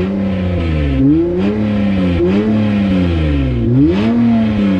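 Car engine with a home-fitted custom exhaust revving, its pitch rising and falling about four times as the revs climb and drop back.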